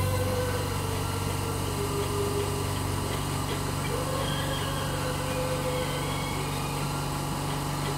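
Steady electric machine hum, with a faint wavering higher tone over it.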